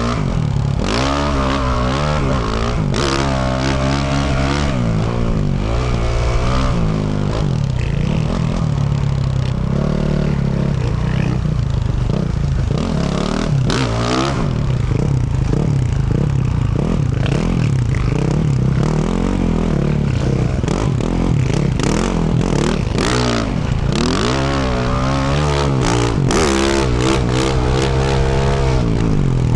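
2024 Yamaha YZ450F's 450cc single-cylinder four-stroke engine, fitted with a Yoshimura RS-12 exhaust, being ridden hard, its pitch rising and falling over and over as the throttle is worked. Sharp clacks and knocks from the bike over rough ground come through, clustering in the second half.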